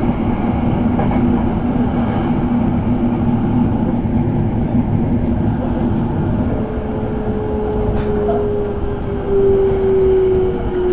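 Electric commuter train running on rails, a steady rumble from inside the car. From about two-thirds of the way in, a motor whine comes in, grows louder and falls slowly in pitch as the train slows for its next stop.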